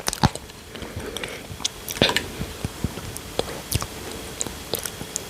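Close-miked chewing and wet mouth sounds of a person eating, with frequent short, sharp clicks and smacks at an uneven pace, the loudest about two seconds in.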